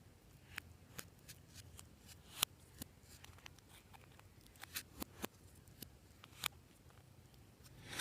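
Clear slime being worked by hand, giving off scattered soft sticky clicks and pops at irregular intervals.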